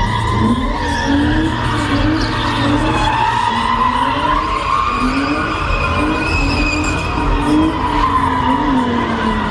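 Car tyres squealing continuously in a steady high screech while the engine's revs rise and fall under the driver's throttle, as in a burnout or skid at a street meet.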